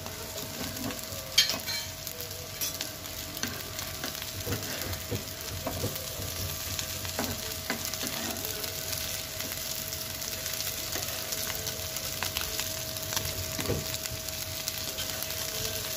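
Potato patties shallow-frying in oil in a nonstick pan: a steady sizzle with fine crackling. A metal spatula scrapes and knocks against the pan as the patties are turned, with one sharp knock about a second and a half in.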